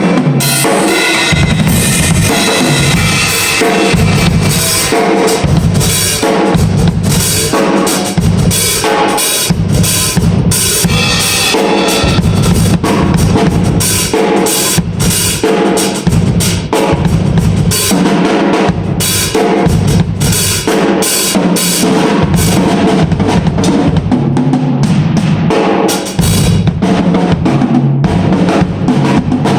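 Drum kit played continuously in a busy pattern, with bass drum and snare hits in quick succession during a sound check.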